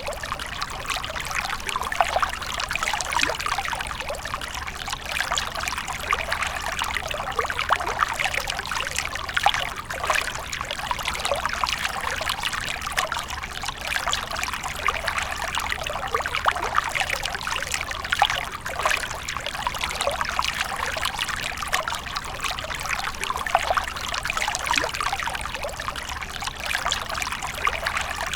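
Water from a fountain splashing and trickling steadily into a basin, a continuous bright patter of small splashes.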